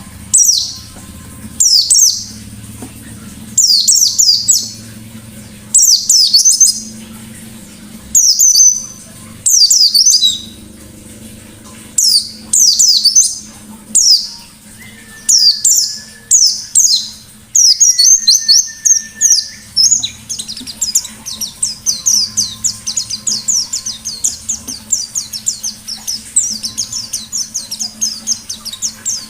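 Pleci (white-eye) singing in short bursts of high, quickly falling chirps, one burst every second or two. For the last third the song becomes a fast, almost unbroken chatter.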